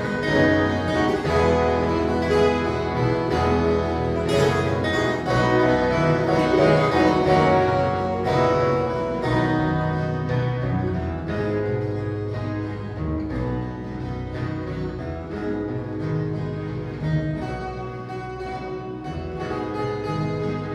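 Ensemble of violas caipiras, Brazilian ten-string guitars, playing an instrumental piece with a bass line beneath, softer in the second half.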